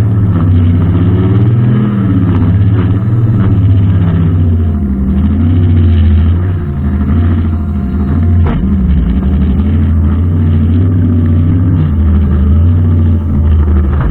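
Brushcutter engine running under load, its pitch wavering up and down as it cuts, with one sharp tick a little past the middle.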